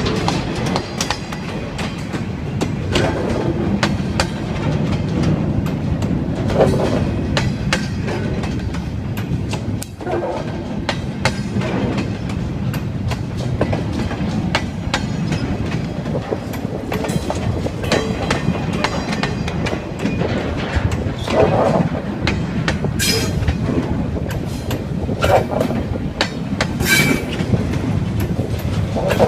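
Train rolling by: a steady low rumble of railcars with wheels clacking over rail joints and frequent short knocks.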